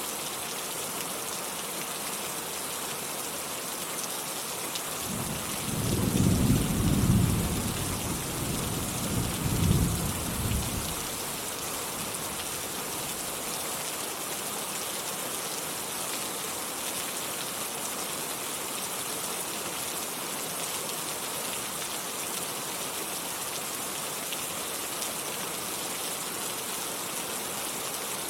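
Steady rain falling as an even hiss, with a low rumble of thunder starting about five seconds in, swelling twice and dying away by about eleven seconds.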